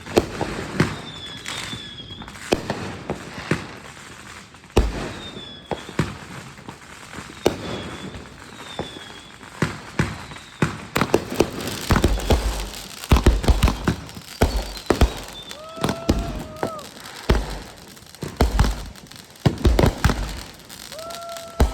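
Consumer fireworks going off: a string of sharp bangs and pops, with deeper booms coming thicker in the second half, and a few short whistling tones.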